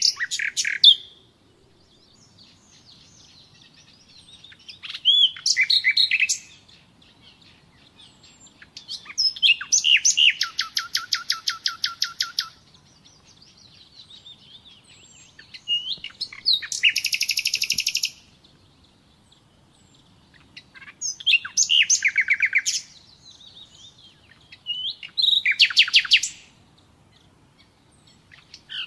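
Common nightingale singing: six separate phrases a few seconds apart, most built of fast repeated notes, some opening with a short whistled slide, the longest lasting about three seconds.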